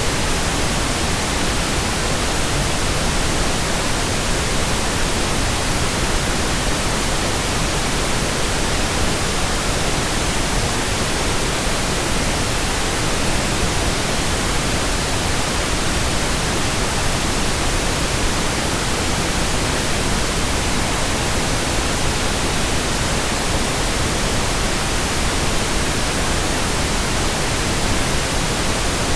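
Continuous white noise, a steady, even hiss spread across the whole range from low to high pitch, with no change in level or character.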